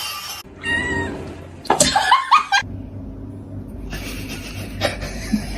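A cat meowing, two calls in the first half.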